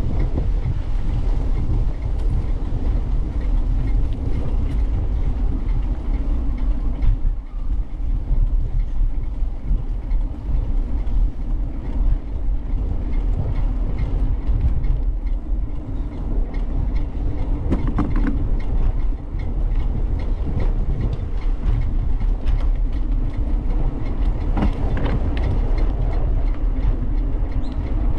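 Steady low rumble of wind and rolling noise on the camera of a moving bicycle, with scattered small knocks and rattles from the ride.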